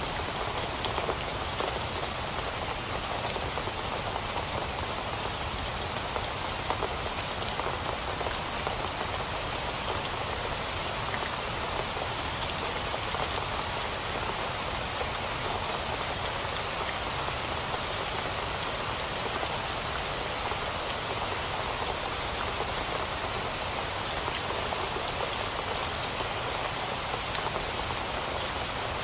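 Steady rain falling and pattering on a surface, with scattered distinct drops.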